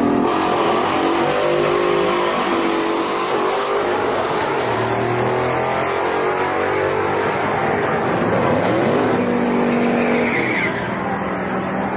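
Drag-racing cars running hard down the strip, engine pitch climbing, dropping back and climbing again several times as they accelerate.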